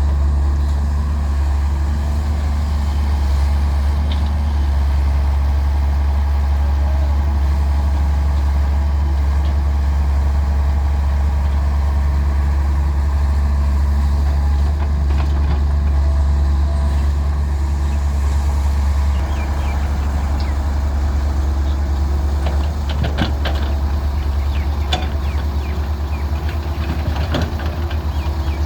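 Diesel engine of a Daewoo 170W-3 wheeled excavator running steadily while it loads mud, with a few sharp clanks and knocks in the last third.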